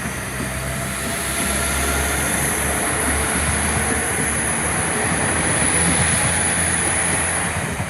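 Train passing through the station: a steady rumble of wheels on the rails with a high whine, swelling about a second in and dying away near the end.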